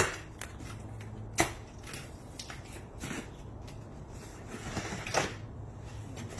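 A few sharp knocks and clatters, the loudest right at the start and about a second and a half in, over a steady low hum.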